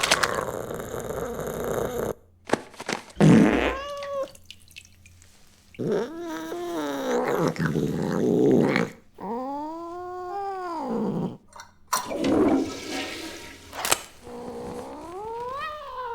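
A cat straining on a toilet with long, drawn-out yowls that rise and fall in pitch, about four of them, with rough noisy bursts in between.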